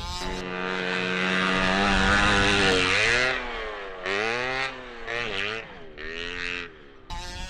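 HPI Baja 5B's 29cc two-stroke engine held at high revs for about three seconds, then falling off and revving up again in several short bursts.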